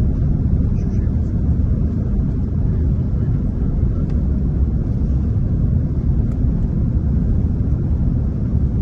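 Steady low rumble of cabin noise inside an Airbus A330-300 airliner, the engines and airflow heard from a passenger seat.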